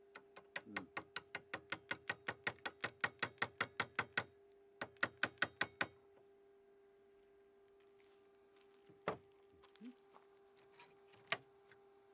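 A fast run of sharp taps, about six or seven a second for some four seconds, then a shorter run. Two single knocks follow later, over a faint steady hum.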